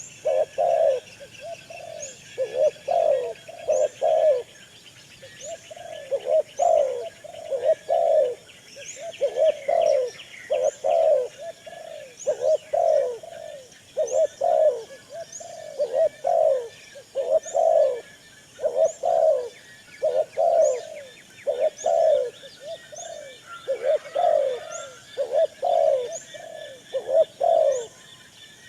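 Captive birds calling: a steady run of short, low calls, about one or two a second, with fainter high chirps and trills above them.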